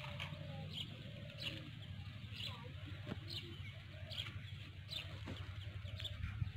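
Faint bird calls over a steady low rumble, with light ticks a little more than once a second.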